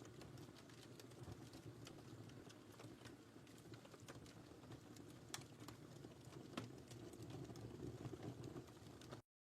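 Wood fire burning in a fireplace: a soft low rumble with scattered small crackles and pops, two sharper pops a little past the middle. The sound cuts out abruptly just before the end.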